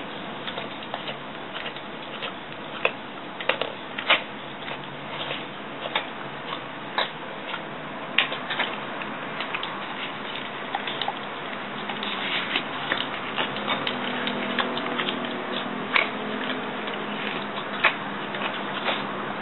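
A pet eating from its food dish: irregular small clicks and crunches of chewing and food being picked up, over a steady background hiss.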